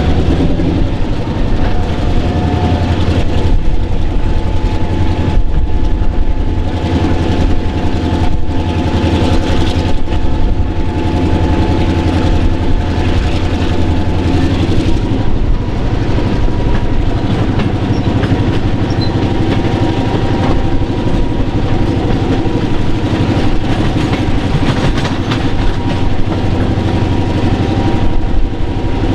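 A diesel-hauled passenger train running: a steady engine drone with the clatter of wheels over the rails.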